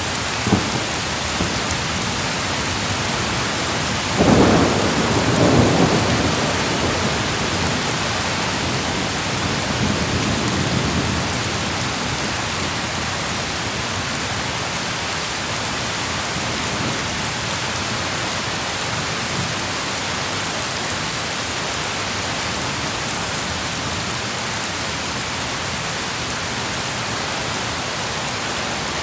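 Steady heavy rain with thunder: a short crack about half a second in, then a loud rumble of thunder around four seconds in, rolling on for a few seconds, and a fainter rumble a few seconds later.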